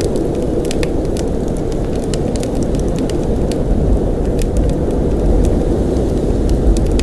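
Blizzard wind: a steady, deep rush with no let-up, overlaid with scattered light ticks throughout.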